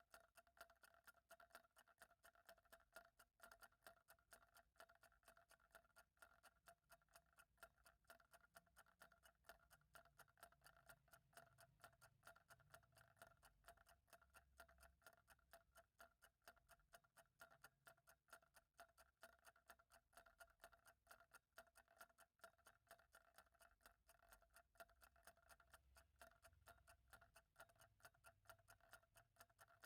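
Faint clock ticking at a quick, even pace, over a steady faint hum.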